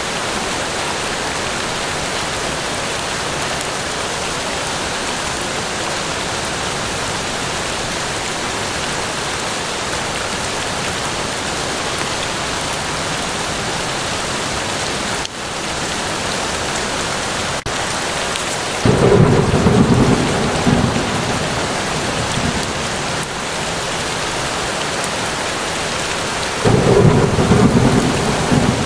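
Steady rain falling, with two low rolls of thunder: the first starting about two-thirds of the way in and fading over a few seconds, the second coming in near the end.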